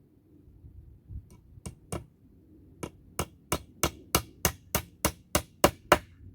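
Hammer blows, likely driving nails into wood: a few scattered light taps, then a steady run of about a dozen hard strikes, roughly three a second.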